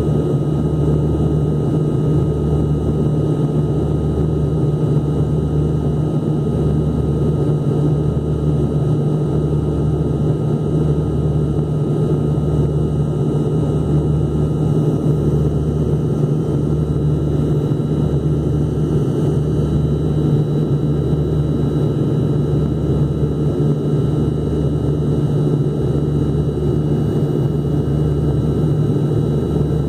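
Airliner engine drone heard inside the passenger cabin, steady and loud, with a slow pulsing beat in the low hum about every second and a half.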